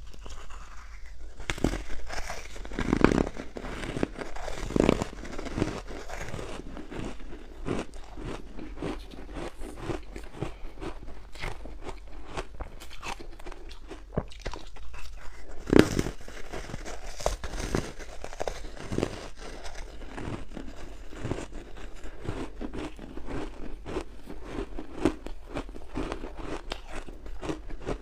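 Close-miked crunching and chewing of hard ice with the mouth: a dense run of irregular cracks and crunches, the loudest bites about 3, 5 and 16 seconds in.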